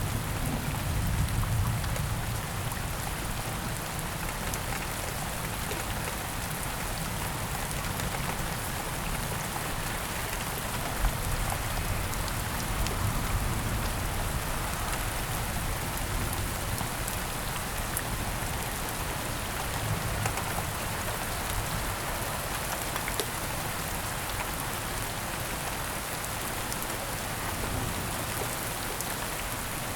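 Heavy rain falling steadily in dense patter, with a low rumble underneath that eases in the first couple of seconds and a few sharper drop ticks.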